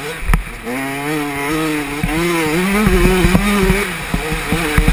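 Yamaha 125 motocross bike's engine under load, revving with its pitch climbing and dropping back several times as the rider accelerates and shifts.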